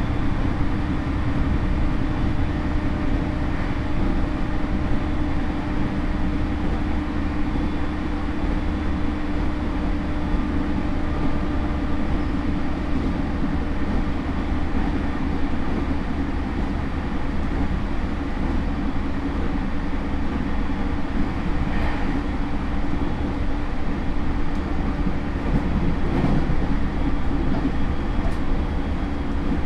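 Running sound inside a JR E231 series electric motor car with a Hitachi IGBT inverter: a steady low hum over continuous wheel-and-rail rumble at an even speed.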